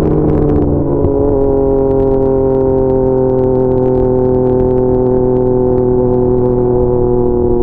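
Yamaha MT-09's three-cylinder engine running through an SC Projects CR-T exhaust. Its note steps down once, about a second and a half in, then holds steady and sinks slowly.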